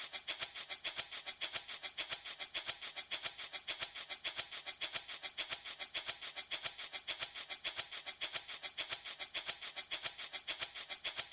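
Handmade baby rattle shaken steadily in an even rhythm, about five or six crisp shakes a second.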